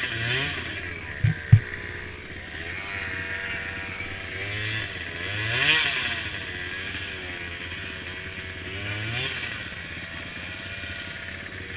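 Small mini quad engines racing, revving up and down as they pass, with louder swells at the start, in the middle and about three-quarters of the way through. Two sharp knocks come close together about a second and a half in.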